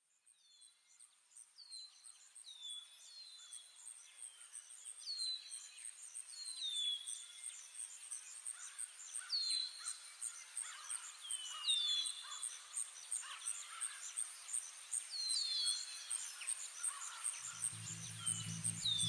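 Bird calls, repeated short falling chirps, over a steady, evenly repeating high pulse like an insect, fading in from silence. A low bass drone of music comes in near the end.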